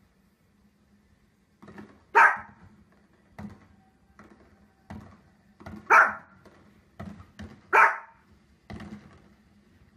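A small dog barks sharply three times, at fireworks on a television, with fainter thumps from the televised fireworks in between.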